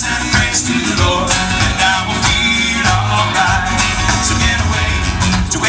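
Live country-rock band playing an instrumental passage, with guitars, bass and a steady drum beat.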